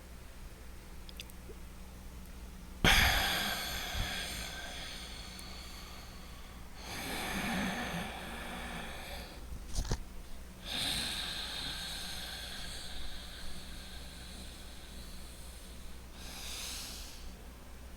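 A man breathing slowly and loudly through his nose as a tai chi breathing exercise: four long, noisy breaths with short holds between them, the first starting abruptly about three seconds in and the loudest, the last faint. A brief click near the middle and a steady low hum underneath.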